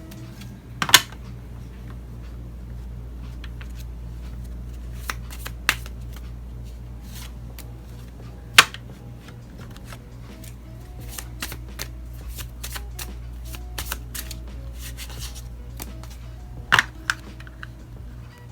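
Tarot cards being shuffled by hand: a run of light card clicks with a few sharp snaps, the loudest about a second in and near the end, over quiet background music with a steady beat.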